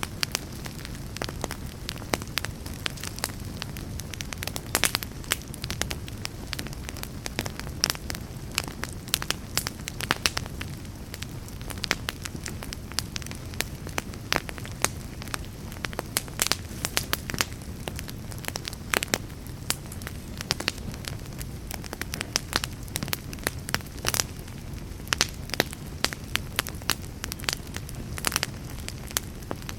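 Wood fire burning in a fireplace, crackling steadily with many irregular sharp pops over a low, even rush of flame.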